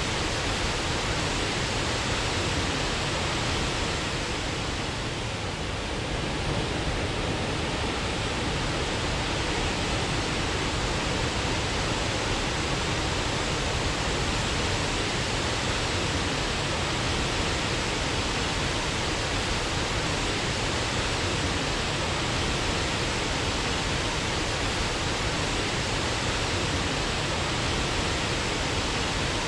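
Waterfall: a steady, even rush of falling water, dipping slightly for a moment about five seconds in.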